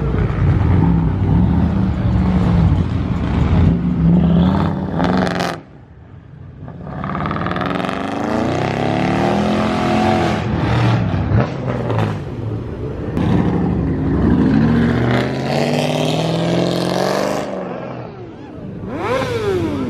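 Car engines at a car meet idling, revving and accelerating as cars drive past, their pitch rising and falling several times, with a quick rev near the end.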